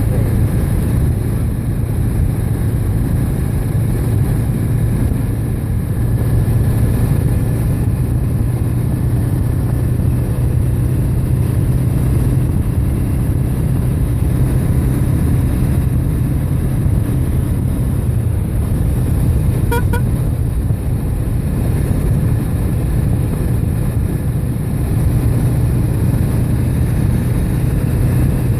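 Steady, loud rumble of riding along a road, with a brief horn toot about twenty seconds in.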